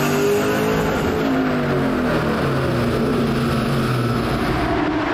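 Ford Mustang GT's V8 engine running loudly under load on a chassis dyno. Its pitch climbs slightly in the first second, then slowly eases down.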